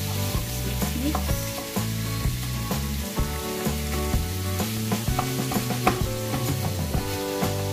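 Ground meat sizzling in a frying pan while a wooden spatula stirs it, scraping and knocking against the pan now and then.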